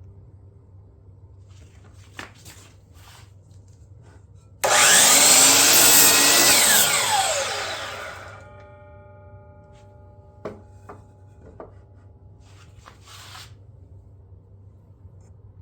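DeWalt miter saw motor switched on partway in, running loud for about two seconds, then released and winding down with a falling whine over about two seconds. A few light clicks follow.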